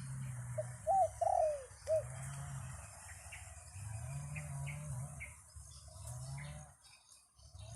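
Doves cooing, with a few loud arched coos about a second in, then softer wavering, trilled coos. Small birds chirp in short, high notes in between.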